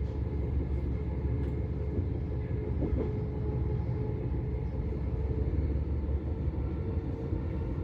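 Vy electric passenger train running with a steady low rumble and a faint steady hum over it.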